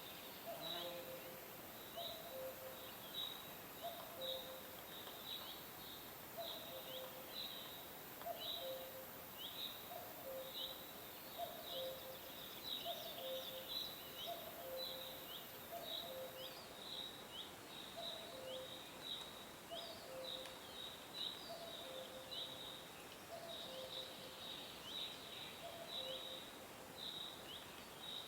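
Birds chirping: a steady stream of quick, short chirps that slide downward in pitch, over a lower two-note call repeating about once a second. A faint high hiss underneath stops about halfway through.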